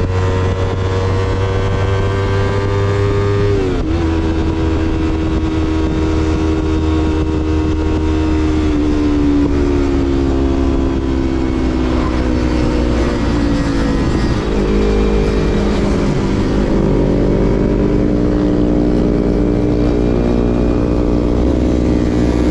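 2016 Yamaha MT-25's parallel-twin engine through a Shadux Viper Pro Race aftermarket exhaust while riding: revs climb steadily, drop sharply with a gear change about four seconds in, then ease off gradually, dip and recover a couple of times past the middle, and settle at a steady pitch.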